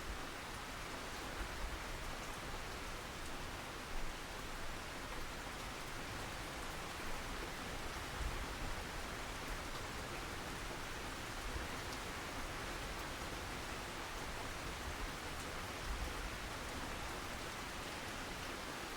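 Steady rain falling, an even hiss with a few soft low thumps mixed in.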